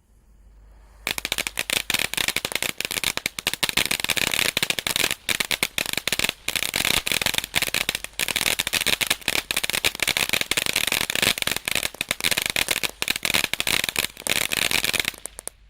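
Low-noise garden firework of the fountain type burning: a continuous hissing, crackling spray of sparks that starts about a second in and stops suddenly near the end.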